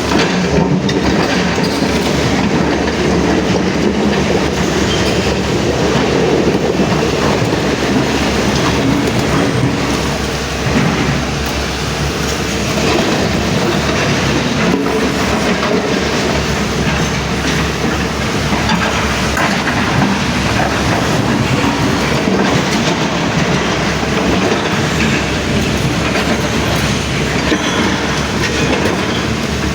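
A Tata tipper truck running steadily with a continuous rattling clatter.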